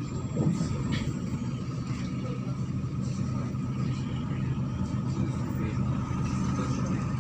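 MAZ-103 city bus running, heard from inside the passenger cabin: a steady low engine hum with a thin steady whine above it and a few faint rattles.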